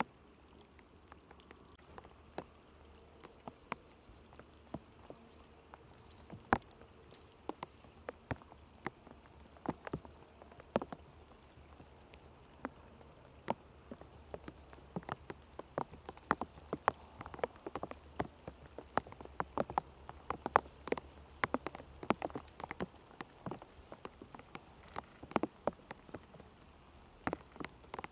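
Scattered raindrops tapping in irregular, sharp hits that come much more often from about halfway through.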